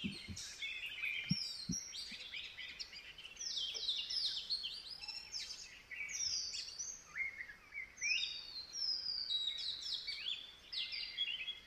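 Several birds calling in the forest: many short, high chirps, each falling in pitch, overlapping and repeating throughout.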